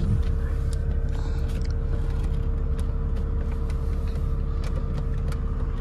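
BMW 2.0-litre straight-six engine running steadily at low revs, heard from inside the cabin: a continuous low rumble with a faint steady tone above it and a few light ticks.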